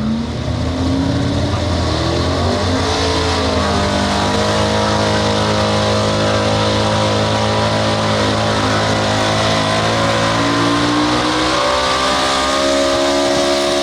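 Super street pulling truck's engine running at high revs under load as it pulls the sled. Its pitch climbs over the first few seconds, holds steady, then rises again near the end.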